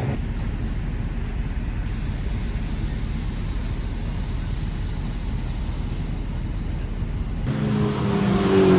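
A steady, even rumbling noise with no clear engine note, then an abrupt change near the end to a rally car's engine, louder, its note falling slowly.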